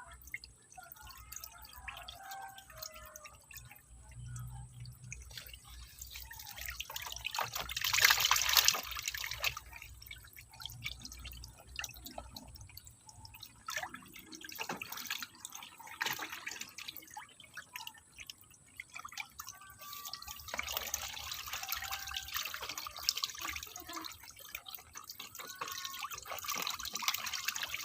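Water splashing and dripping in a catfish tub, in irregular bursts that are loudest about eight seconds in and pick up again from about twenty seconds.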